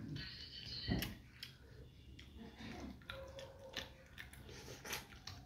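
A person eating cooked meat with the fingers, chewing with wet mouth clicks and smacks. There is a louder knock about a second in.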